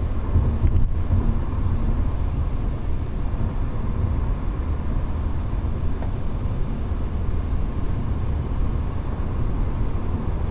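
Steady road noise inside a moving car's cabin: a low rumble of engine and tyres, with the tyres running on a wet, pre-treated road.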